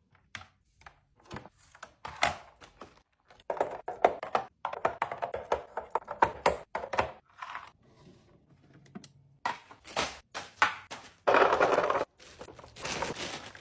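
Plastic food containers and packaging being handled while restocking a fridge: a run of clicks, knocks and taps, with longer rustling, clattering stretches about four seconds in and near the end.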